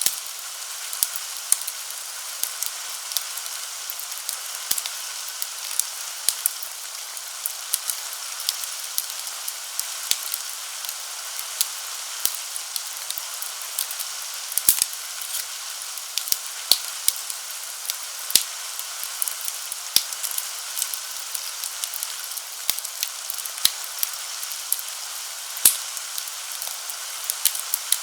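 Wood fire crackling in a fireplace, with irregular sharp pops, over a steady hiss of rain.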